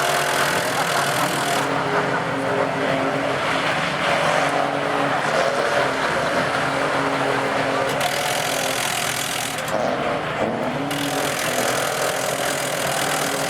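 Dually diesel pickup truck doing a burnout: the engine running hard under load with a steady, dense noise of the tyres spinning on the pavement, the noise thinning briefly about two seconds in and again around eight to eleven seconds.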